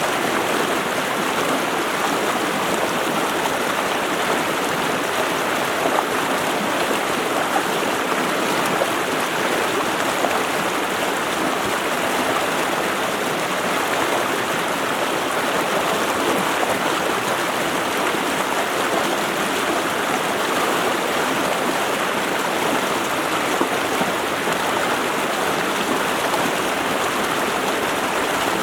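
Stream water running steadily, an even rushing with no change in strength.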